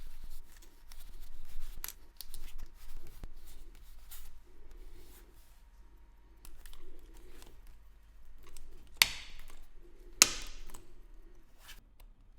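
Small hand tools handled at close range on a bench: scattered light clicks, scrapes and snips, with two sharper clicks about 9 and 10 seconds in.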